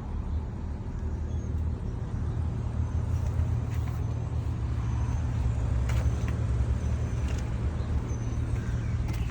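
A car engine idling: a steady low rumble, with a couple of faint light clicks about six and seven seconds in.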